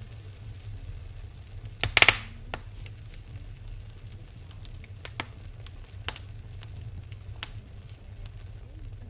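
Wood fire in a fireplace crackling, with scattered sharp pops and one loud burst of crackles about two seconds in, over a low steady rumble.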